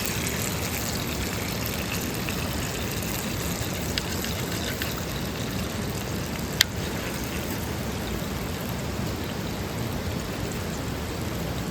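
Steady rush of a flowing mountain stream, with two sharp clicks about four and six and a half seconds in.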